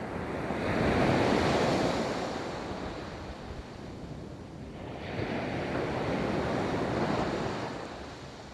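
Ocean waves breaking and washing up a beach: two waves in turn, one about a second in and another about five seconds in, each swelling and then fading as it runs out.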